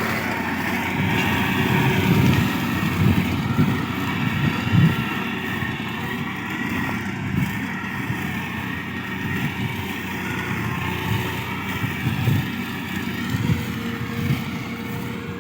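Tractor engine running steadily while driving a mulcher that shreds grass and scrub, with uneven low thuds. The sound eases off near the end.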